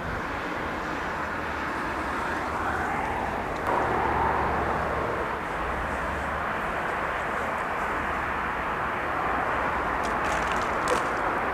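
Boeing 787 airliner's jet engines running with a steady rush, growing a little louder about four seconds in.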